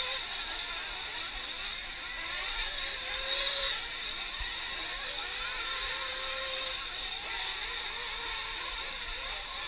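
Several 1/8-scale nitro RC truck engines running at high revs together, a high-pitched whine whose pitch keeps rising and falling as the trucks accelerate and back off.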